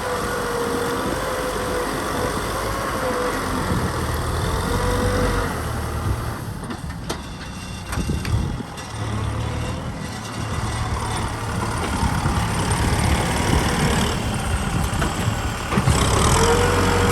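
Kubota M6040 SU tractor's diesel engine running under load while plowing, with a wavering whine over it. It runs quieter for a few seconds around the middle, then picks up again near the end.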